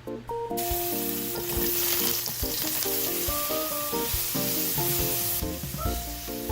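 Food sizzling as it fries in a hot pan, starting about half a second in, over background music with a light melody.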